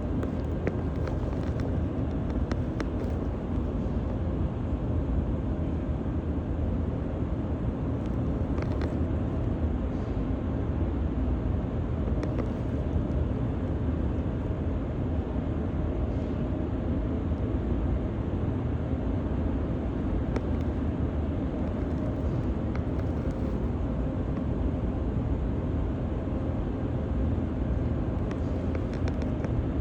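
Steady low rumble of a car on the move: engine and road noise, with a few faint clicks.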